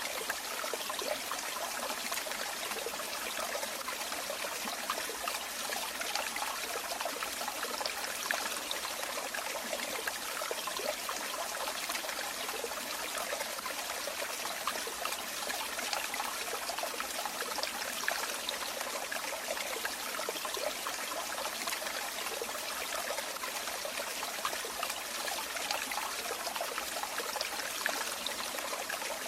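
Running water trickling and splashing steadily, a continuous bright babble of many small splashes with no change over time.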